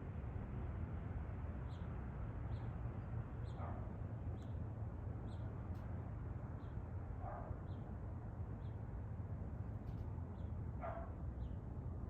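An animal calling: a short high chirp repeated about once a second, with three louder calls that fall in pitch, a few seconds apart, over a steady low rumble.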